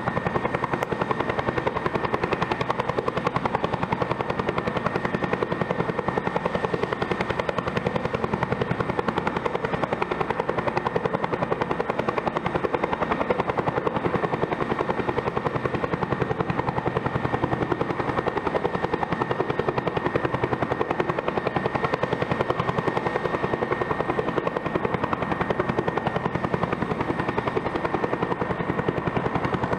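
Bell helicopter running steadily: a high turbine whine over a rapid, even rotor beat, with no change in pitch or level.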